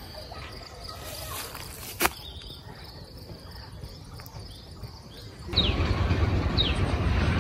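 Quiet outdoor ambience with one sharp click about two seconds in. About five and a half seconds in, a louder rushing noise comes in abruptly, with short, high, falling chirps repeating about once a second.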